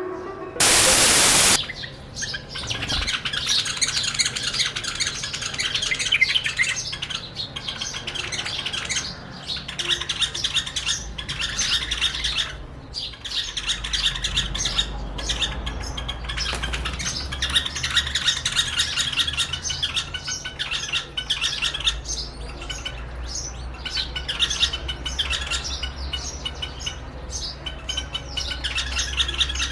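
A pair of white-eared bulbuls calling and singing continuously in quick, squawky chirps, competing with their own reflection in a mirror. A brief loud burst of noise cuts in about a second in, and a low rumble sits underneath from about halfway.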